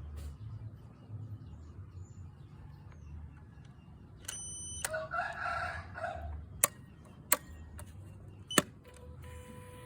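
A rooster crowing once, about halfway through, followed by a few sharp clicks and then a steady low hum near the end.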